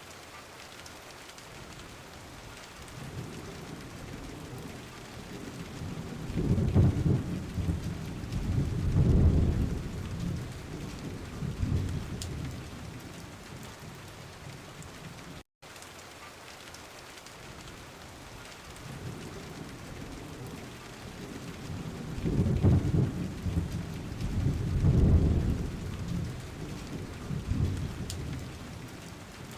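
Steady rain falling, with thunder rolling twice as long low rumbles, about six seconds in and again about twenty-two seconds in. The sound cuts out for an instant near the middle, where the recording loops and repeats.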